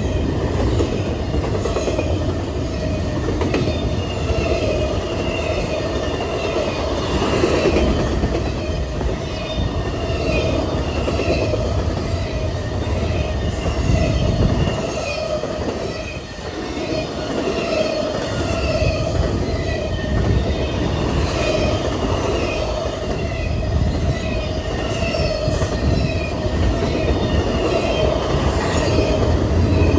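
BNSF freight train cars rolling past close by, a steady heavy rumble of wheels on rail with short high wheel squeaks repeating about once a second.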